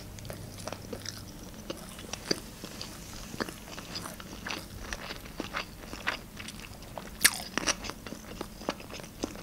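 A person chewing a mouthful of sushi roll close to the microphone. There are many short, irregularly spaced mouth clicks and smacks, with one louder click about seven seconds in.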